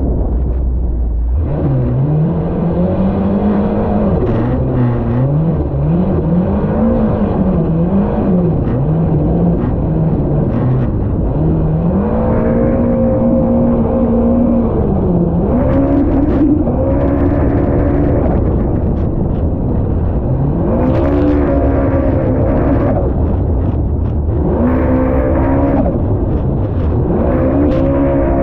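Supercharged Yamaha SVHO engine of a jet ski running under way, its pitch climbing about a second and a half in and then rising and falling again and again as the throttle is worked, over a constant loud rush of noise.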